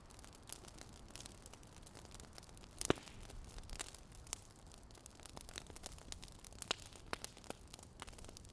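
Fire crackling: irregular sharp pops and snaps over a faint hiss, with one louder pop about three seconds in.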